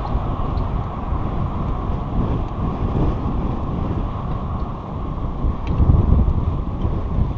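Wind buffeting the microphone during a bike ride: a steady low rushing that swells and eases, a little louder about six seconds in.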